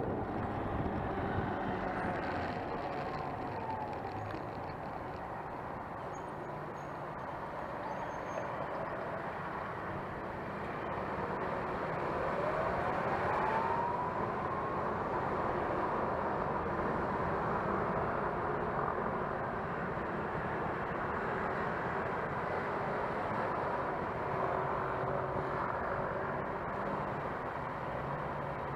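City traffic and road noise heard while riding a Gogoro 2 electric scooter, with a whine rising in pitch about twelve seconds in.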